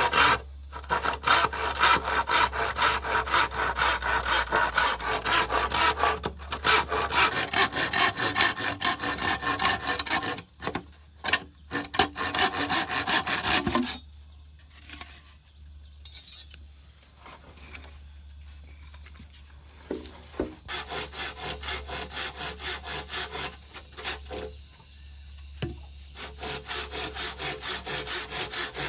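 Hand saw cutting through wood in quick back-and-forth strokes, stopping for several seconds past the halfway mark and then starting again.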